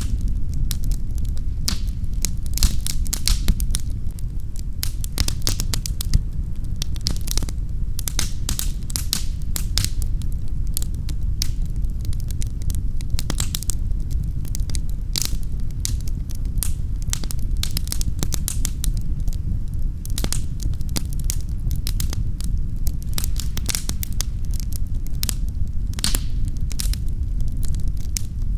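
Fireplace fire crackling: dense, irregular sharp pops and snaps over a steady low rumble of flame.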